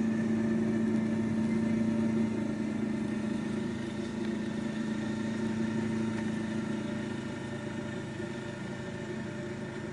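An engine running at a steady speed, its hum holding one pitch and easing off slightly after about two seconds.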